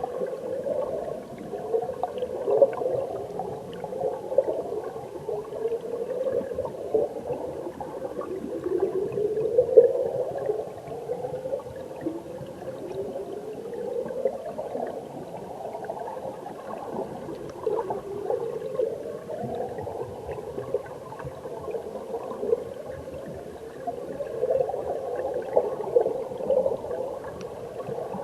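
Mountain stream water heard from underwater through a submerged camera: a muffled, bubbling rush, with gurgling swells that rise in pitch every few seconds.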